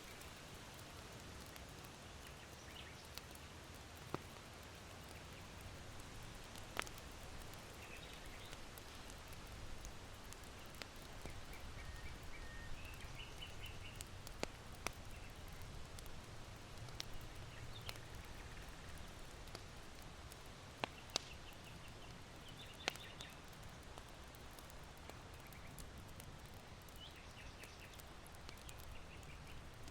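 Charcoal embers in an irori hearth crackling faintly, with sharp pops every few seconds. Behind them runs a low steady wind rumble, and distant small birds chirp in short trills now and then.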